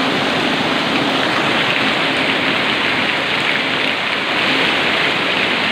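Heavy tropical downpour: a steady, dense hiss of rain pouring down.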